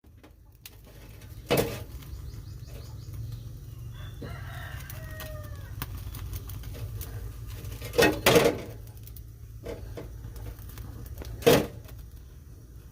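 Native chickens: about four seconds in, a rooster gives a crow that falls in pitch at the end. Several loud, short bursts, likely wing flapping, come a little after one second, twice around eight seconds and once near the end, over a steady low rumble.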